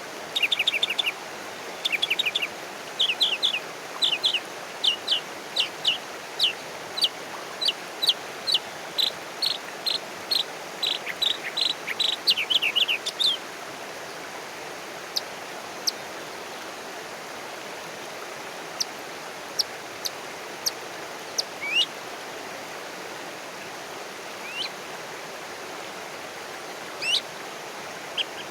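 A bird chirping in fast runs of short, high notes for the first half, then only occasional single chirps and a few brief rising calls, over a steady background hiss.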